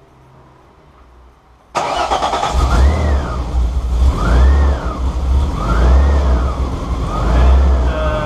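Alfa Romeo 24-valve V6 engine with an open cone air filter, revved by hand at the throttle four times, each rev rising and falling in pitch. The sound comes in suddenly about two seconds in.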